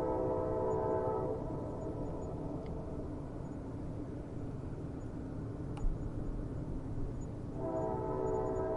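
Train horn sounding steadily, cutting off about a second in, leaving the low rumble of the train on the rails; the horn sounds again near the end. A single faint click about six seconds in.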